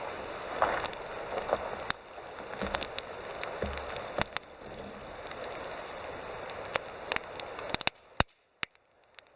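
Wood campfire crackling, with frequent sharp pops and snaps over a soft hiss of burning. Near the end the hiss drops away and only a few isolated pops remain.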